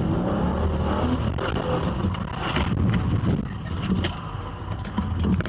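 Car engine revving and accelerating hard, rising and falling in pitch, with road noise, heard from inside the car.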